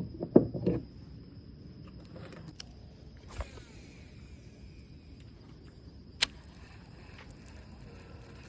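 Handling sounds aboard a kayak: a few low thumps in the first second, a knock about three seconds later with a brief whir after it, and a single sharp click about six seconds in, over a faint steady high tone and quiet outdoor background.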